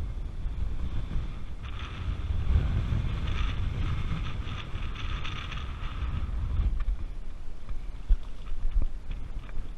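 Strong wind buffeting the microphone, a low gusty rumble, joined for several seconds in the middle by a rushing hiss.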